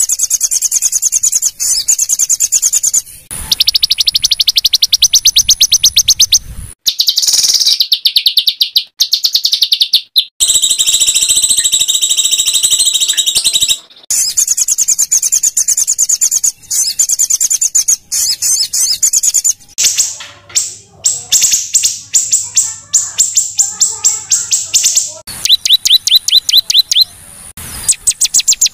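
Small songbirds singing fast, harsh, high-pitched trills of rapidly repeated notes. The recording is a spliced bird-song training track of the kind used to teach white-rumped shamas, so the song changes abruptly every few seconds from one bird's phrase to another's.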